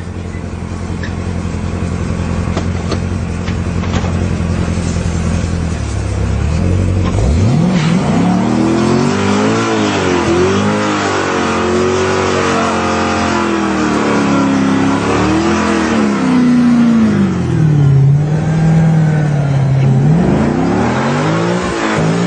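Corvette Z06's V8 engine running at a steady low speed, then from about seven seconds in revving up and down again and again.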